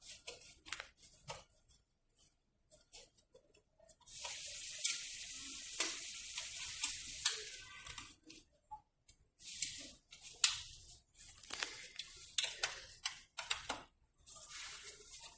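Bursts of rustling, scratchy noise with scattered small clicks, the longest lasting about four seconds from about four seconds in.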